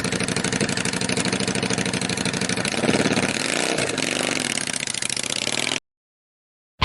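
An engine running with a fast, even pulse, rising and falling in pitch briefly about halfway through, then cutting off suddenly about a second before the end.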